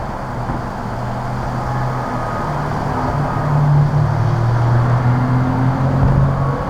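A motor vehicle's engine running with a low, steady hum that rises slightly in pitch and level partway through, over a constant rushing noise.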